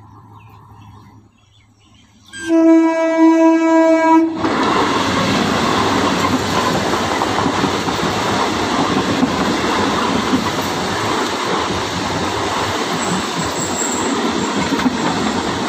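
Indian Railways EMU local train sounding one long, steady horn blast about two and a half seconds in, then passing close by with loud, continuous wheel and track noise.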